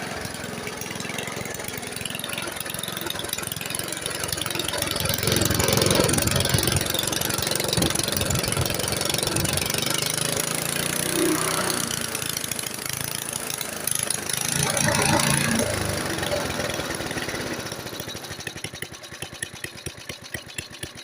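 1972 Briggs & Stratton single-cylinder lawn mower engine running, louder and faster through the middle, then slowing near the end so the separate firing beats can be heard. It runs fast with no throttle spring to hold it at a slow speed.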